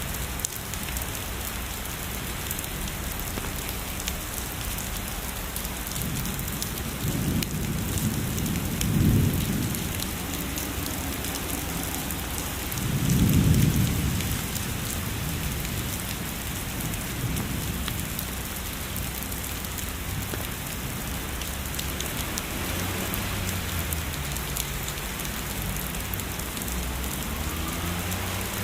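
Steady heavy rain hissing on surfaces, with rumbles of distant thunder: two low rolls about 7 to 10 seconds in and a stronger one at about 13 seconds.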